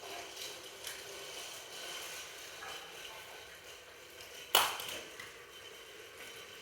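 Light clicks and knocks of hard toy train pieces being handled and fitted, with one sharp clack about four and a half seconds in.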